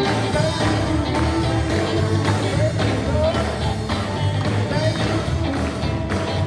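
Live sacred steel gospel band playing: steel guitar sliding between notes over electric bass and drums.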